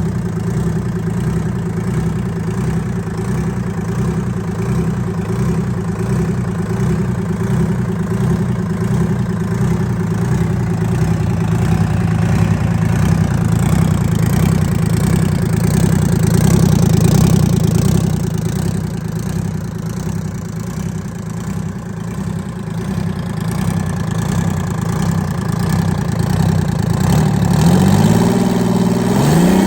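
Detroit Diesel 6V53 two-stroke V6 diesel engine running steadily on its test run, then speeding up near the end with a rising pitch.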